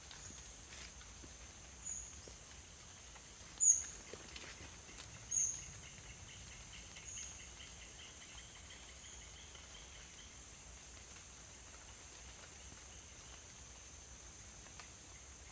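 Tropical forest ambience after rain: a steady high insect drone, with five short high chirps about a second and a half apart over the first seven seconds, the third the loudest, and a rapid trill from about four to ten seconds in.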